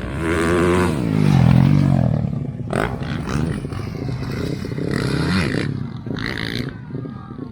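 Motocross dirt bike engines revving up and down as they race, loudest in the first two seconds.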